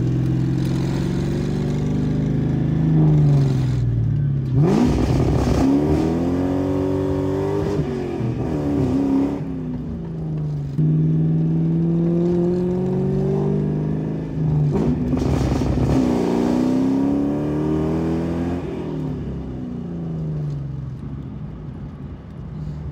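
Ford Mustang's 4.6 L two-valve modular V8 with an X-pipe exhaust, heard from inside the cabin, making full-throttle pulls in first and then second gear. The revs climb and drop back sharply at each shift, then ease off near the end.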